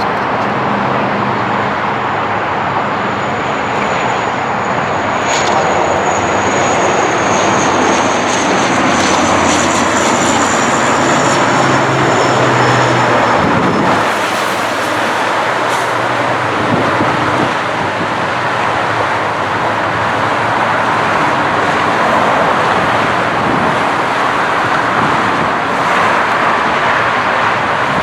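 Jet airliner's engines passing close by: a loud, steady rush with a low drone, and a thin high whine that slowly falls in pitch through the first half.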